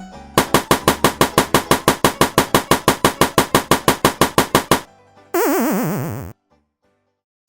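Cartoon sound effects: a fast run of pitched pulses, about six a second, for some four seconds. Then about a second of hissing with a wavering, falling whistle, like a balloon letting its air out, which cuts off suddenly into silence.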